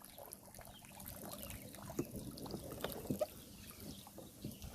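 Water trickling and dripping out of a swamped RC boat hull as it is drained, with scattered small clicks of handling.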